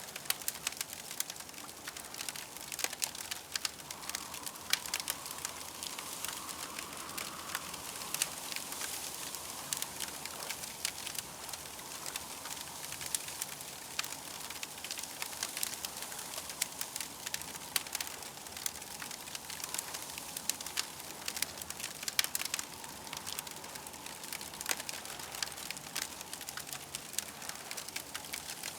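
Campfire crackling steadily, with dense irregular pops and snaps over a soft hiss of burning wood.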